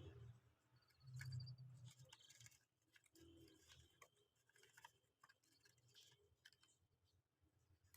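Very faint scattered light taps and clicks with a few faint high peeps, typical of baby chicks pecking and cheeping.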